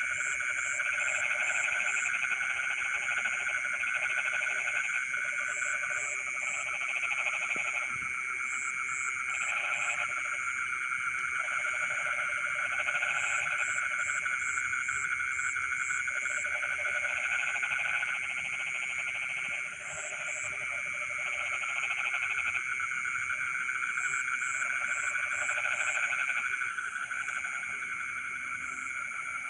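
Dense chorus of many rice-field frogs calling at once, a steady trilling wall of sound. Lower croaking comes in bouts of a second or two, and short high pips run in quick groups of four or five every few seconds.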